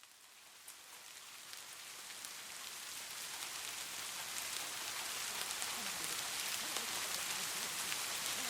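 Rain falling, fading in from silence and growing steadily louder, with faint scattered drop patters in a steady hiss.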